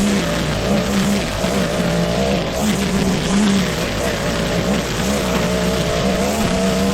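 Petrol lawn mower engine running under load, its pitch dipping and recovering every second or so as it cuts thick, wet grass.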